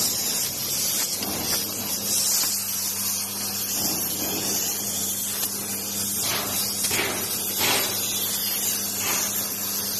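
Steady hissing, like a spray or jet of air or water, over a steady low hum, with a few brief louder swishes a little after halfway.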